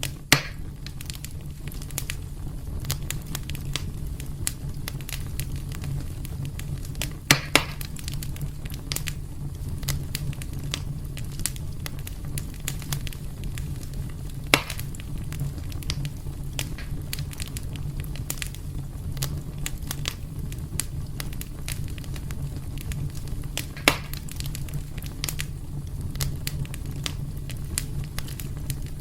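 Wood fire burning in a fireplace: a steady low rumble of the flames with constant fine crackling and four louder sharp pops spread through the stretch.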